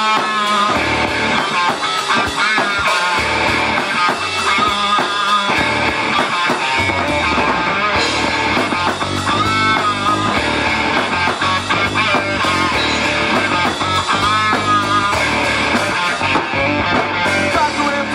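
Live rock band playing an instrumental passage led by electric guitar over bass.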